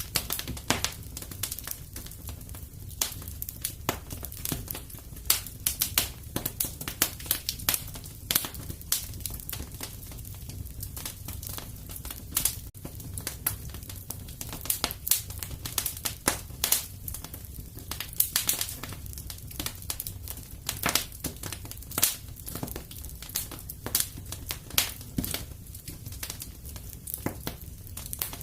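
Fire crackling in a fireplace: irregular sharp snaps and pops, a few louder than the rest, over a low steady rumble.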